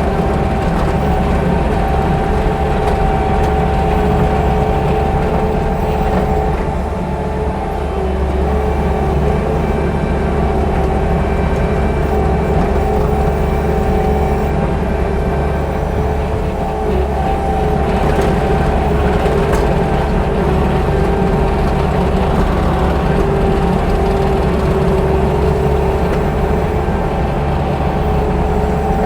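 Bobcat T630 compact track loader's diesel engine running steadily while working, with a steady whine on top and only brief small dips in level.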